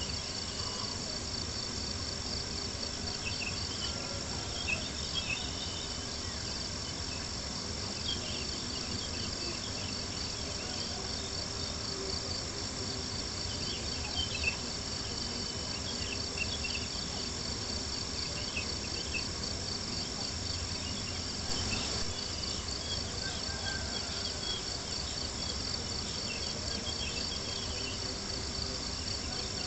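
Crickets chirping in a steady, rapid pulsing trill, with scattered small crackles and a few sharper pops from a campfire.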